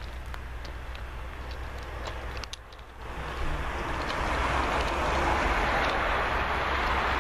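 Electric-hauled freight train approaching. Its wheel and rail noise swells from about three seconds in and stays loud as the locomotive draws near.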